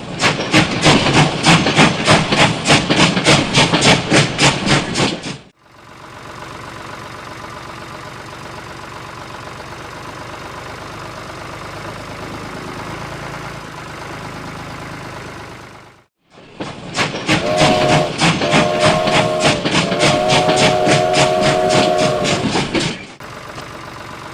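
Rhythmic mechanical chugging at about four beats a second, in two loud stretches with a quieter steady running sound between them. A held whistle-like tone sounds over the second stretch.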